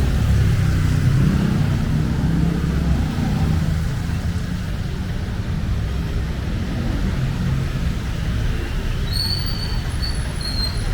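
Street traffic: the engine rumble of a passing motor vehicle, heaviest in the first few seconds, settling into a steadier traffic hum. A few short high-pitched chirps near the end.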